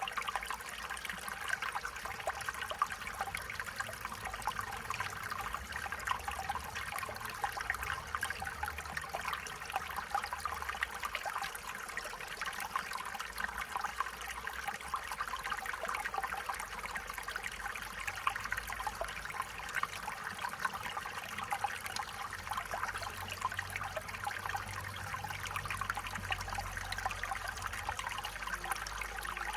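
Stream water trickling and splashing over stones, a steady babble.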